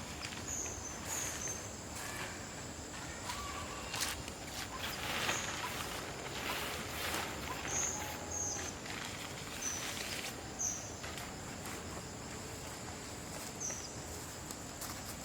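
Outdoor natural ambience: a steady high-pitched insect buzz with short, high chirps every second or so. Occasional clicks and rustles, like handling or footsteps, come in between.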